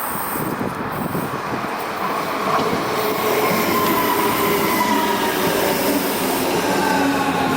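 Electric train coming into the station, running louder as it nears. Its rumble carries a whine whose pitch slowly falls as the train brakes.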